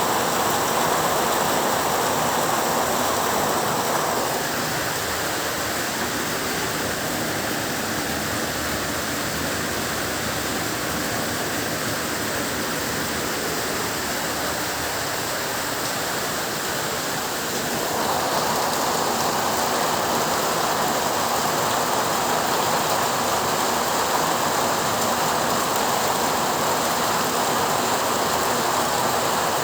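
Heavy rain pouring in a steady hiss. It eases slightly about four seconds in and picks up again around eighteen seconds.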